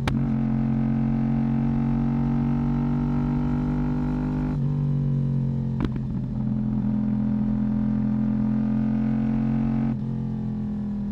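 Yamaha YZF-R1 inline-four motorcycle engine and exhaust running at a steady cruise with a low drone. The note steps in pitch about four and a half seconds in and again around six seconds, with a brief click, then eases off near the end with a slowly falling pitch.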